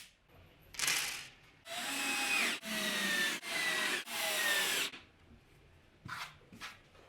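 A power tool working wood in short pulses: one brief burst, then four runs of under a second each with a whine that falls in pitch during each run, then two brief bursts near the end.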